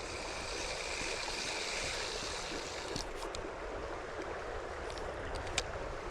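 Stream water running steadily, with a few light sharp clicks about halfway through and again near the end.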